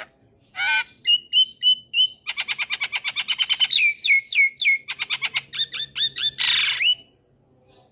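Javan myna (jalak kebo) singing a varied song. It opens with a harsh note and a few clear whistles, runs into a fast string of about ten notes a second, then falling slurred whistles, and ends with a harsh rasping call about seven seconds in.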